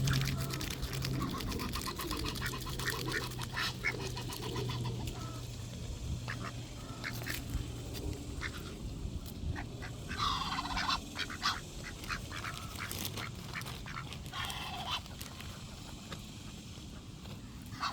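A flock of ducks feeding close by, chattering and quacking, with many short pecking clicks as they pick up scattered sunflower seeds. Two louder calls stand out, about ten seconds in and again about fifteen seconds in.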